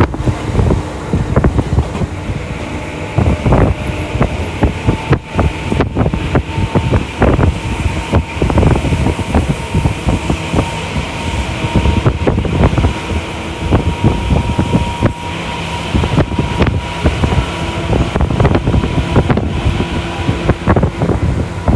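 Interior running sound of a Tokyu Toyoko Line electric commuter train at speed: a continuous wheel-on-rail rumble with frequent rattling clatter and a steady hum.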